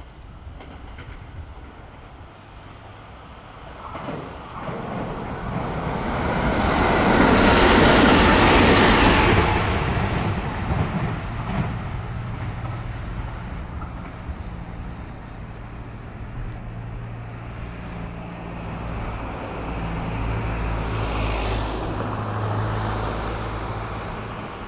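JR West 521 series two-car electric multiple unit passing at speed. Its sound builds, is loudest about eight seconds in as it goes by, then dies back to a lower rumble as it runs away.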